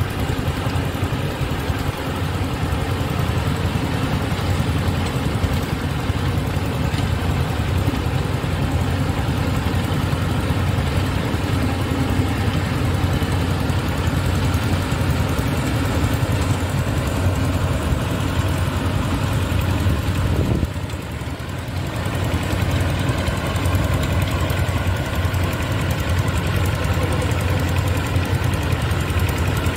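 Yanmar rice combine harvester's diesel engine running steadily, briefly dropping in loudness for about a second about two-thirds of the way through.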